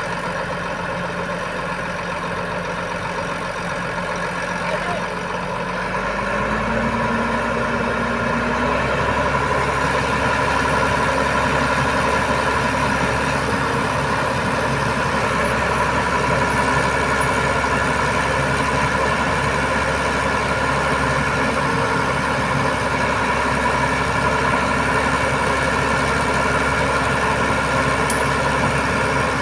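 Diesel truck engine running steadily. About six seconds in, its speed rises over a few seconds and then holds at a higher, steady pitch.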